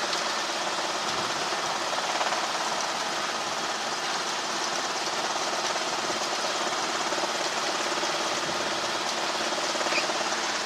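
Helicopter engine and rotor running steadily, a constant even drone with a faint underlying hum, heard inside the cockpit.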